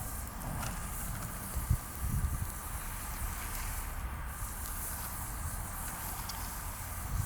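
Bonfire of green pruned branches burning with a steady low hiss and occasional small crackles, plus a few low thumps about two seconds in.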